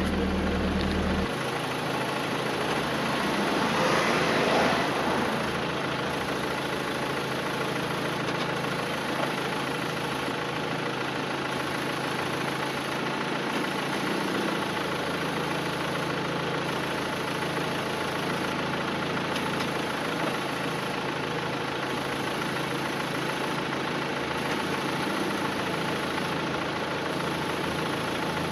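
A 1998 Volvo S40's engine idling steadily, heard from close beside the engine bay, with a brief louder, hissier swell about four seconds in. The engine sits on a worn front engine mount that lets it rock back and forth.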